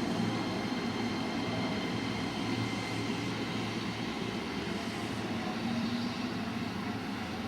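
205 series 5000 electric commuter train running on the track, a noise of wheels on rails with a set of steady whining tones from its drive, slowly getting quieter.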